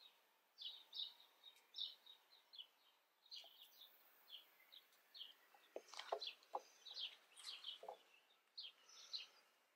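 Faint bird chirping: many short, high calls in quick succession. A few soft clicks about six to eight seconds in.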